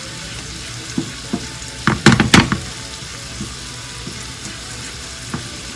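Sausage frying in a pan with a steady sizzle, broken by a few sharp knocks, the loudest a quick cluster about two seconds in, and one more near the end.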